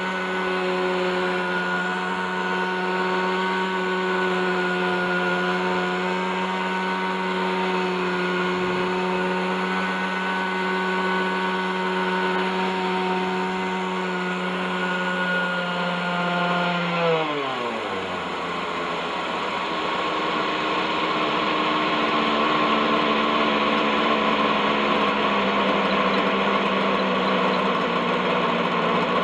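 OS 61SF glow engine of a Baron Alpha Black Shark RC helicopter, unmaintained for over thirty years, running steadily at hovering speed. About two-thirds of the way in its pitch falls over a second or two as it is throttled back, and it runs on at a lower, rougher pitch toward idle.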